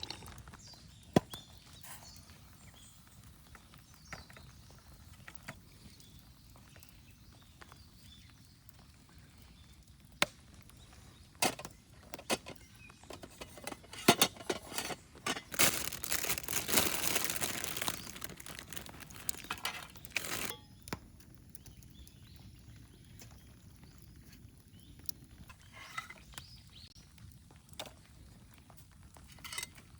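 Scattered clicks and knocks of camp cookware and utensils being handled while making soup in a mess tin. A hissing rush lasts about five seconds midway and cuts off suddenly.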